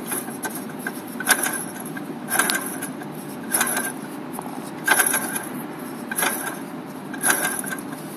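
Porsche 928 S4's V8 engine idling steadily, with a sharp clack recurring about once a second over the running.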